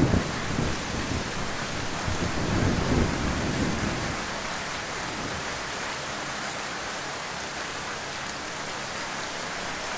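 Heavy rain falling in an even hiss. A low rumble dies away in the first second and another swells briefly around three seconds in.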